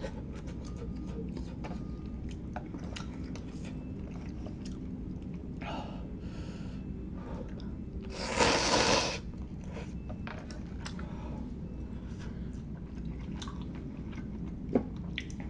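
Close-miked eating of instant hot pot: wet chewing and biting with many small mouth clicks. A louder hiss-like burst lasting about a second comes a little past halfway, and a sharp click comes near the end.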